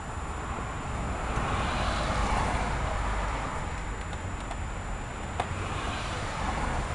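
A car passing by, its tyre and engine noise swelling and fading, then a second vehicle approaching near the end. One sharp metallic click about five seconds in.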